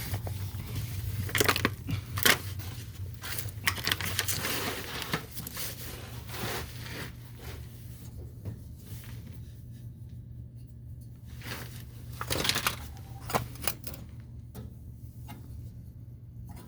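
Scattered clicks, taps and rustles of hands handling equipment, busiest in the first half and again briefly near the end, over a steady low hum.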